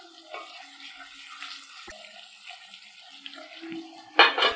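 Potato cubes frying in oil in a pan on a low flame: a steady, gentle sizzling hiss. Near the end, a loud metallic clatter as a steel plate is set on the pan as a lid.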